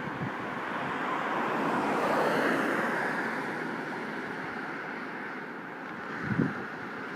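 A rushing whoosh that swells to its loudest about two and a half seconds in, then slowly fades, with a few low wind buffets on the microphone near the end.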